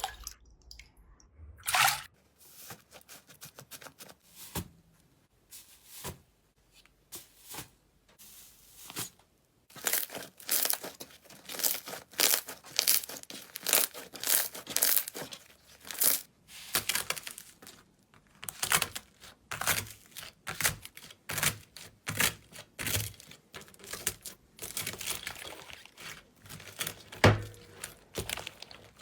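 Slime being worked by hand, giving off a run of sharp crackles and pops. They are sparse for the first several seconds and come thick and fast from about a third of the way in, with one louder pop near the end.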